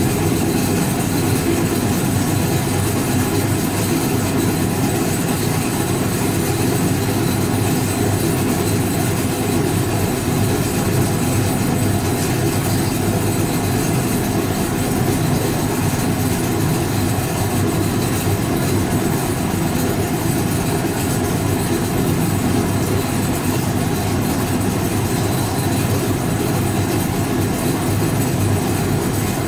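1965 English Electric Liberator washing machine running with a steady, even mechanical drone.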